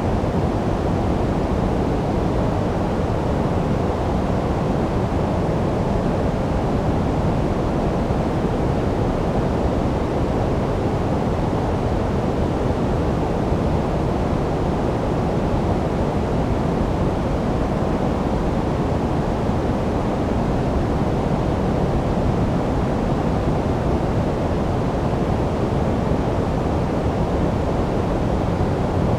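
Steady, unchanging generated noise played for sleep, deep and muffled rather than hissy, with most of its weight in the low end and little high treble.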